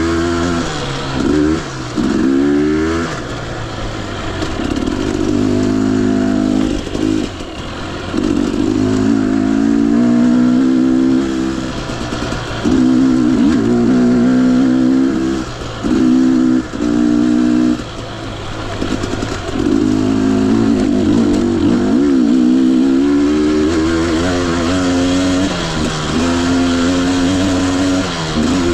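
Two-stroke engine of a Husqvarna TE 250i dirt bike riding trail, its pitch rising and falling as the throttle is opened and chopped every second or two.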